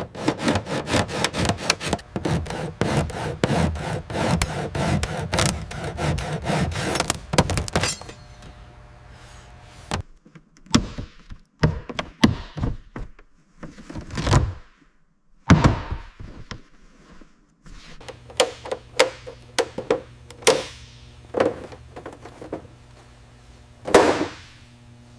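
Workshop hand-tool work: fast, repeated scraping strokes for about eight seconds, then a series of separate knocks and clunks, with a faint steady hum behind them.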